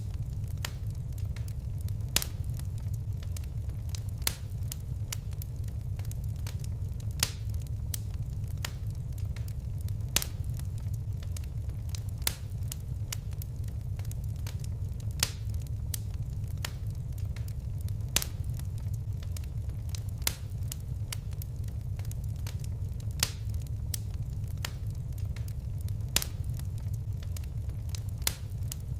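Wood fire crackling in a fireplace: a steady low rumble of flames with frequent small pops, and a louder sharp snap about every two to three seconds.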